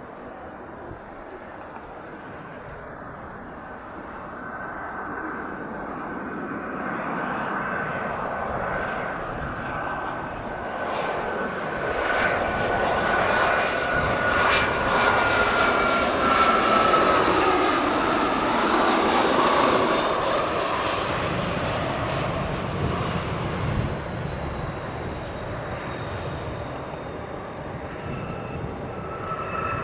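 Dassault Falcon 2000X business jet's twin turbofans passing close on landing: the turbine whine builds, peaks about two-thirds of the way through and slides down in pitch as the jet goes by, then a lower rumble fades away.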